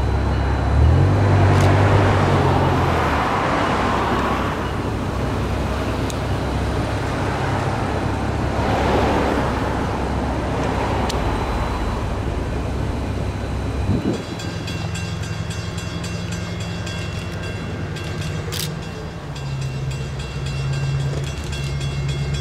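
Diesel locomotive-hauled train running, a steady low engine drone with swells of wheel and rail noise. The sound changes abruptly about two-thirds of the way through to a quieter, steady drone.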